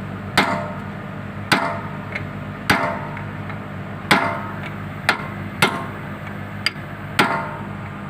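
Hammer blows on the steel bucket pin of a Komatsu PC200-7 excavator, driving it through new bushings: about eight sharp, ringing strikes, roughly one a second. The excavator's engine hums steadily underneath.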